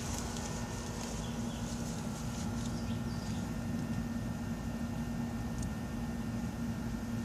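Steady outdoor background: a low rumble under a constant mechanical hum, with a few faint high chirps about a second in, around three seconds in, and near the end.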